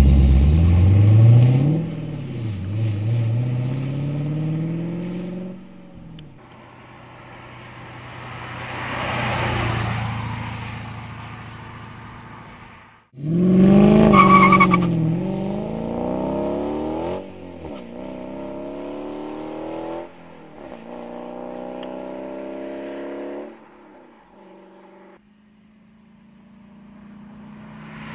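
2010 Dodge Challenger's V8 through an MBRP stainless cat-back exhaust, in several cut-together runs. The car accelerates with the engine note climbing and dropping back at each gear shift, and in one run it drives past, swelling and fading.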